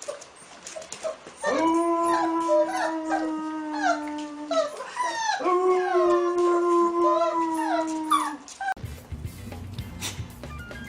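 A dog howling along with music that holds a steady low note. There are two long phrases of about three seconds each, with a short break between them. Near the end the sound cuts abruptly to a low rumbling noise.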